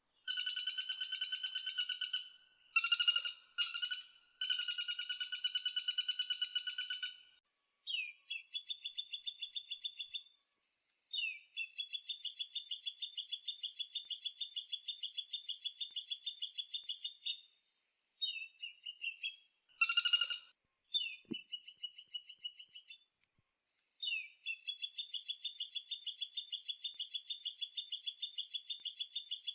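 Woodpecker calling in rapid, high trilled rattles: about ten series, from under a second to over six seconds long, broken by short pauses.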